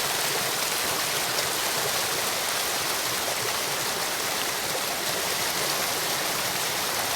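Waterfall: a steady, even hiss of falling water, strongest in the higher pitches, with no change in level.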